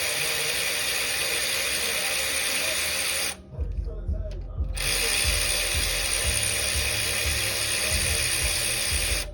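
A power ratchet runs in two long stretches, stopping suddenly for about a second and a half a little over three seconds in, as it spins bolts out during an engine teardown.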